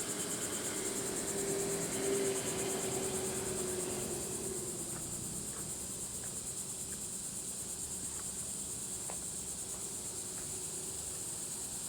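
Steady, high-pitched, pulsing insect chorus. A passing vehicle's hum fades away over the first few seconds.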